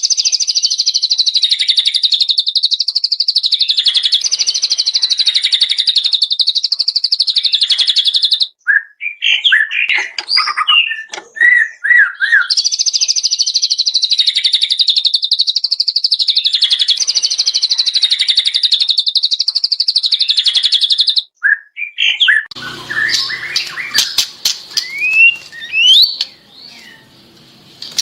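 Cage-bird song from a songbird tutor track: a long, fast, buzzy trill held for about eight seconds, a few seconds of varied whistled notes, then the same long trill again. Near the end it switches to a noisier recording of scattered chirps and sharp clicks.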